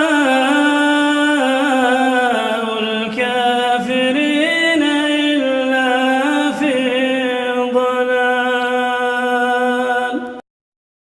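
Male reciter chanting the Quran in a drawn-out melodic line, holding and ornamenting long notes that step up and down in pitch. The voice cuts off abruptly near the end, followed by silence.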